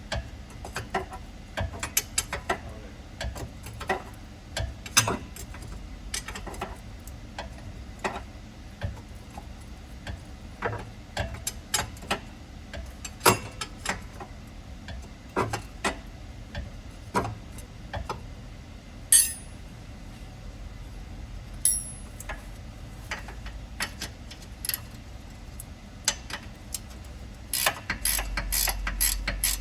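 Hand ratchet wrench clicking in short, irregular strokes on the suspension fasteners, among odd sharp knocks of metal. Near the end it changes to a fast, steady run of clicks.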